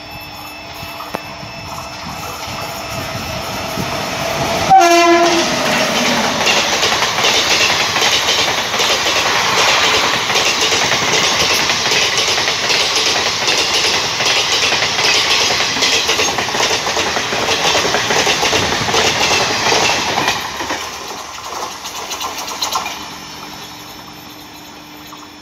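Electric-locomotive-hauled Indian Railways express with ICF coaches passing at speed. The locomotive's horn gives a short blast about five seconds in, its pitch dropping as it goes by. The coaches then rush past for about fifteen seconds, wheels clattering over the rail joints, before the sound fades.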